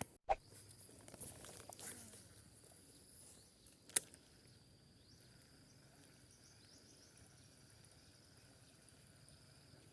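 Faint outdoor ambience with insects shrilling steadily at a high pitch, a few rustles and clicks in the first couple of seconds, and one sharp click about four seconds in.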